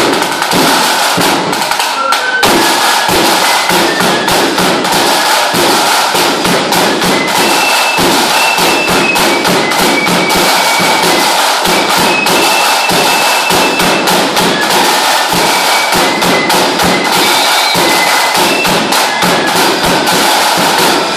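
Lambeg drum beaten with canes in a fast, unbroken rattle of strokes, loud and steady throughout.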